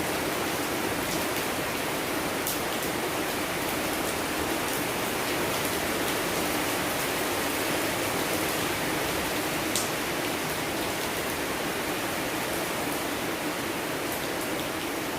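Steady rainfall: a dense, even hiss of rain with scattered sharp drips and drop impacts, one louder tick near ten seconds in.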